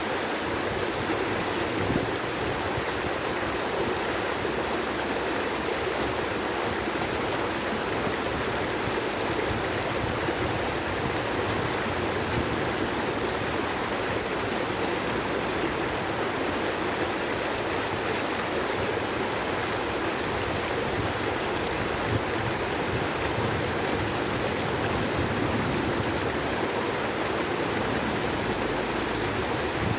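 Flowing water running steadily, an even rushing noise.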